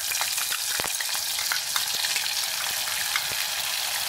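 Wet green masala paste hitting hot ghee in a clay pot and sizzling steadily, a bright hiss full of scattered crackles, with a few sharper clicks.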